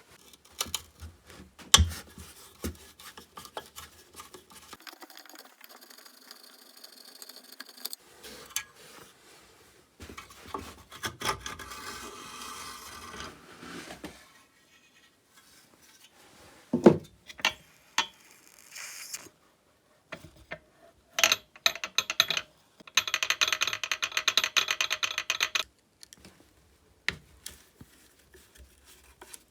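Hand tools working on a chainsaw being taken apart: sharp metal clicks and knocks, scraping and rubbing of parts, and near the end a few seconds of rapid ticking. The sounds come in short pieces that start and stop abruptly.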